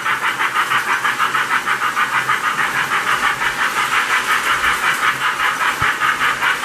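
Toy train steam sound effect from a Lionel O-gauge J Class locomotive running on the track: a steady, rhythmic hissing chuff at about five beats a second.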